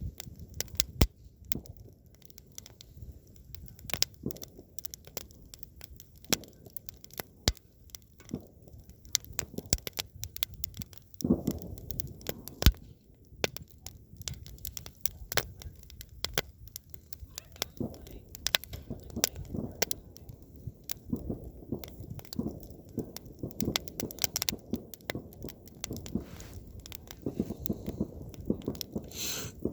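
Wood campfire crackling, with frequent sharp, irregular pops over a low, steady rush of the flames.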